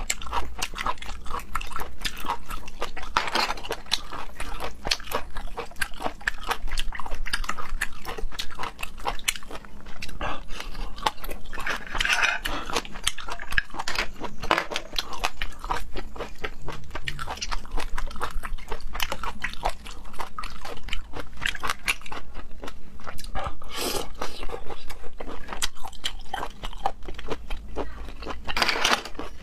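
Close-miked eating of seafood: chewing and biting with many quick wet mouth clicks and crunches.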